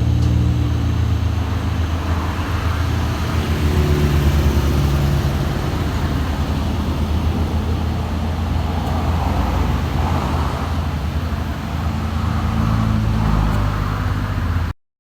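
Heavy diesel truck engine labouring at low revs in a low gear, crawling slowly uphill under a heavy load: a steady low drone that rises and dips slightly in pitch. The sound cuts out abruptly just before the end.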